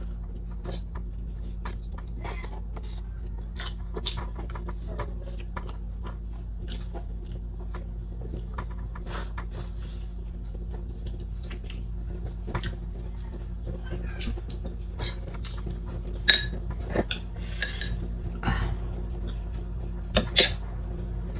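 Close-up eating sounds: chewing of boiled sweet potato with frequent small clicks and clinks of dishes, and a few sharper knocks near the end, over a steady low hum.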